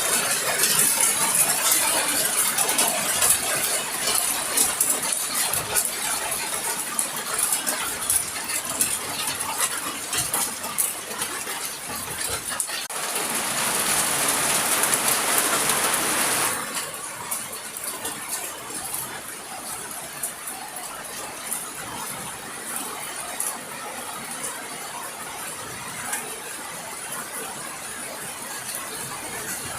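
Ice pellets falling and ticking and rattling densely on hard surfaces, like a clinking rain. About thirteen seconds in, a louder rushing sound swells for about three seconds, then drops back to the steady patter.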